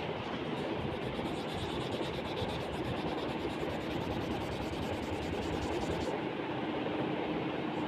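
Oil pastel crayon rubbing on paper while colouring, over a steady rushing background noise; a low, even hum joins about three seconds in.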